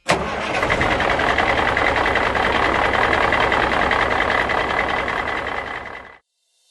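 Kioti PX1153 tractor's four-cylinder diesel engine running steadily, fading out near the end.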